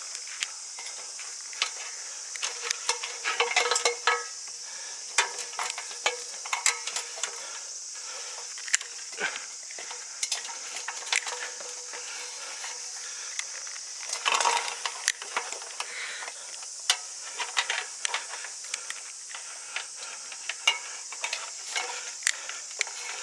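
A steady high-pitched insect chorus with irregular crackling rustles over it, loudest about three to four seconds in and again near the middle.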